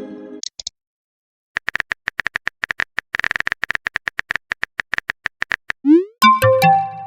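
Synthetic chat-app sound effects: a fast, irregular run of keyboard typing clicks, then a quick rising blip and a short few-note synth jingle near the end as a message is sent. A brief chime fades out at the very start.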